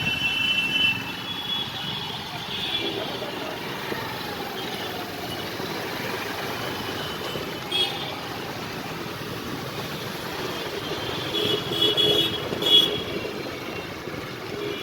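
A motor vehicle running in street traffic, a steady noise throughout, with a short higher-pitched tone about twelve seconds in.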